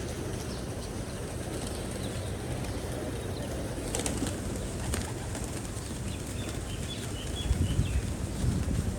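Pigeons cooing, louder and deeper near the end, with two sharp clicks about a second apart midway.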